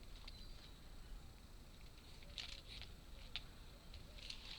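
Faint, scattered light clicks and rustles of wooden model parts being handled, with a small cluster of ticks partway through.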